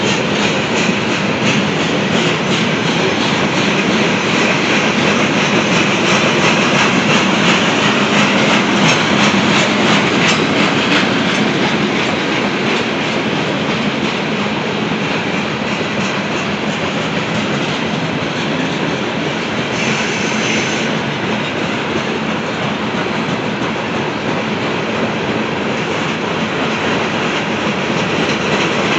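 Loaded Norfolk Southern coal hopper cars of a slow coal drag rolling past, steel wheels clicking over the rail joints over a steady rumble. A brief high-pitched sound rises over the rumble about two-thirds of the way through.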